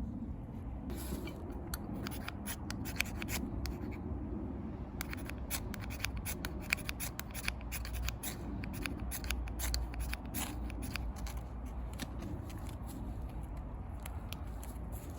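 Wood campfire crackling: irregular sharp pops and snaps over a low steady rumble, the snaps coming thicker after about five seconds.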